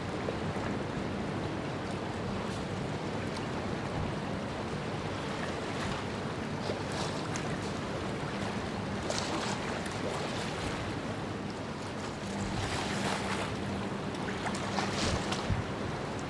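Water wash and wind noise around a ship underway, over a steady low hum, with a few brief louder gusts or splashes.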